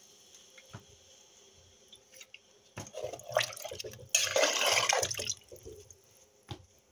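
Water poured into a bowl and swished around to rinse it, with the loudest pour about four seconds in and a few light knocks of the bowl.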